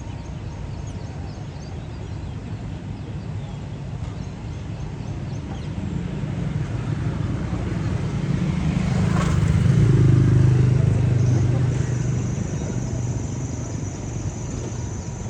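A motor vehicle passes by: its engine grows louder to a peak about ten seconds in, then fades away.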